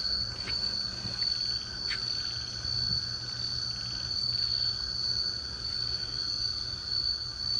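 Night insects, such as crickets, keeping up a steady, unbroken high-pitched trill.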